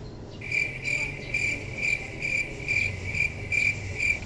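High-pitched insect chirping, a steady trill that pulses about twice a second, over a faint low hum.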